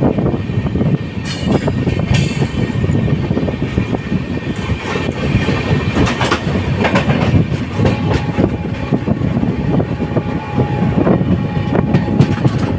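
Indian Railways passenger train running along the track: a steady rumble with irregular clattering clicks of the wheels over rail joints. A faint steady tone comes in about two-thirds of the way through.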